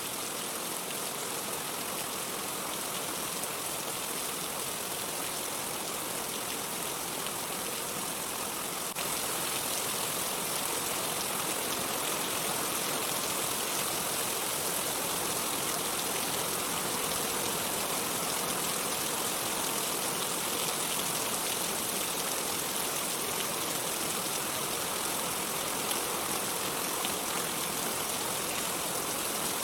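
Steady rain falling, a dense even hiss with no thunder; it grows slightly louder about nine seconds in.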